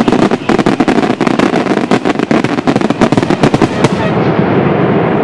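Fireworks finale barrage: a dense, rapid volley of shell bursts and crackling reports. About four seconds in, the separate bangs thin out into a steady rolling noise.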